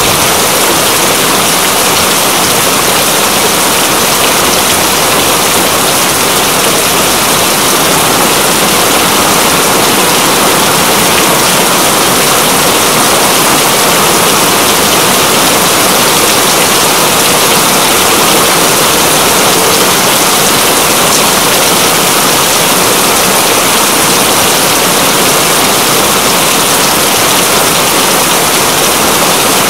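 Steady, dense rainfall: a loud, even hiss of falling water with no pauses.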